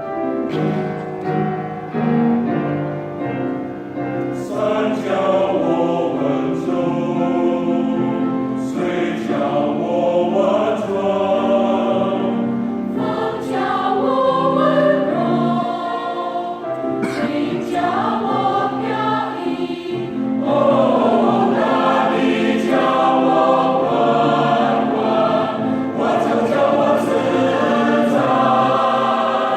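Choir singing in harmony, with many voices holding and changing notes.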